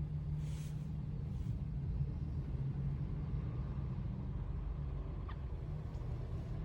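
Steady low rumble of a car engine and road traffic, heard from inside a car.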